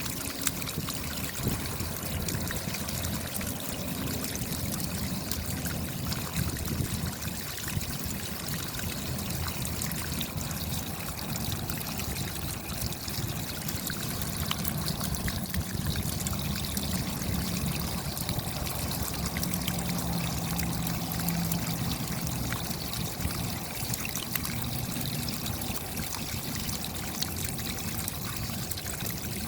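Steady rain falling, a continuous dense patter of small drops with running water beneath, unchanging throughout.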